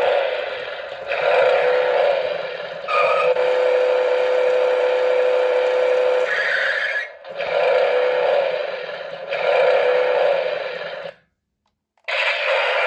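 Battery-powered toy car's sound chip playing engine-revving effects through a small, tinny speaker. The revs repeat about once a second, with a steady held note in the middle, and the sound cuts out briefly near the end before starting again.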